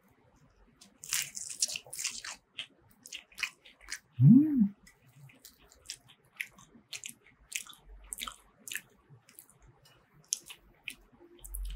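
Close-up eating sounds: a crisp-crusted vegetable croquette being bitten and chewed, with sharp crunches about a second in and near two seconds, then scattered crackles and wet mouth sounds. About four seconds in there is a short hummed "mm" whose pitch rises and then falls.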